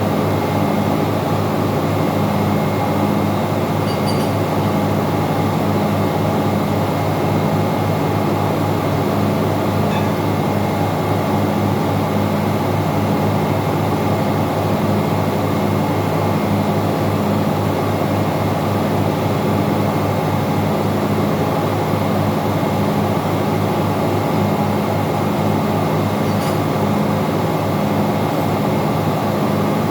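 Steady, loud engine-room machinery noise: a dense drone with an even, rhythmic low throb and a thin steady whine above it, and a few faint ticks.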